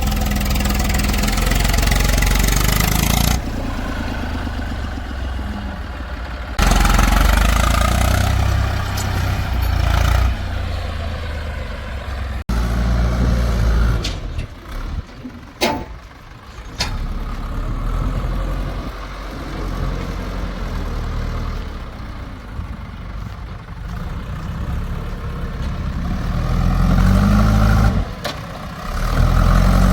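Diesel engines of heavy machinery (a backhoe loader and tractors) running and working under load. The level changes abruptly several times, and the engine revs up twice near the end.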